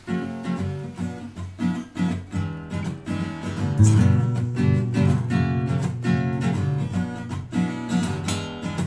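Acoustic guitar strummed in a steady rhythm, about two strums a second, growing fuller and louder about four seconds in.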